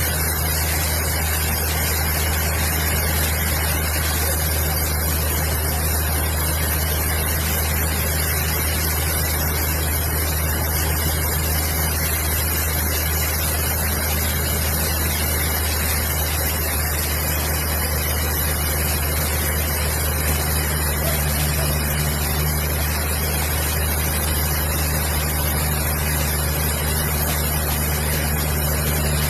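A large engine or motor running steadily at a constant speed: a deep, even hum under a continuous hiss, with no change in load.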